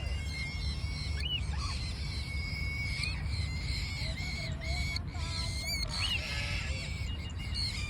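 Birds calling faintly in short, repeated chirps over a steady low rumble.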